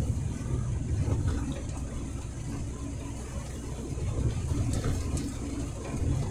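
Truck engine and road noise while driving, a steady low rumble.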